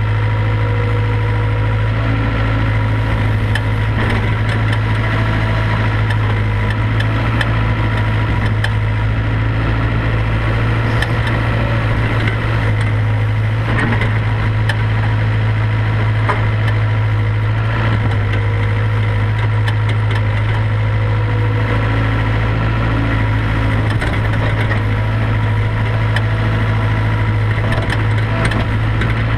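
IHI IS 75B excavator's diesel engine running at a steady speed while it digs and loads, with a few faint knocks over the top.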